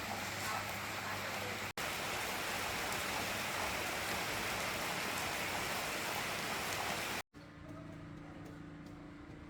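A steady, even hiss, broken off sharply twice: about two seconds in and again near the end. After the second break comes a quieter stretch with a low hum and a few light ticks.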